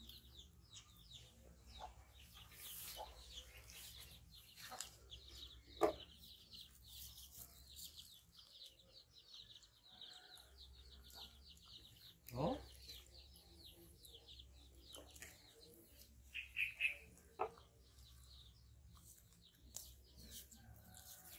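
Quiet background of fast, high bird chirping that thins out after about ten seconds, with a few short knocks and brief calls now and then.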